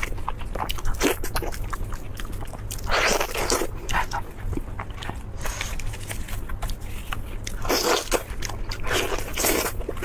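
Close-miked biting and chewing of crispy fried food, with small crackles throughout and a few louder crunches about three seconds in and several more near the end.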